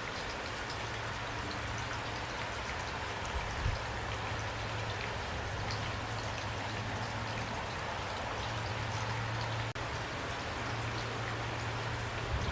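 Steady rain falling, a dense even hiss with individual drops ticking through it and a low hum underneath. The sound briefly drops out for a moment about three-quarters of the way through.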